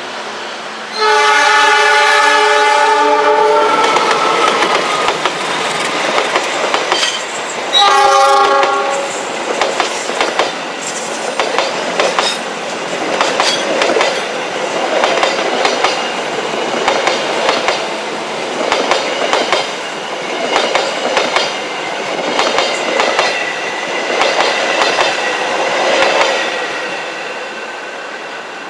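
Diesel locomotive horn sounding two blasts as the train approaches: a long one about a second in and a shorter one about eight seconds in. The passenger coaches then pass close by with a rhythmic clickety-clack of wheels over the rail joints, which dies away near the end.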